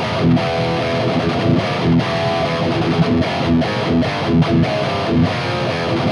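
Heavily distorted electric guitar played through a Mooer Brown Sound preamp pedal, a 5150-style high-gain preamp, with the mids turned back up; a choppy riff with brief stops.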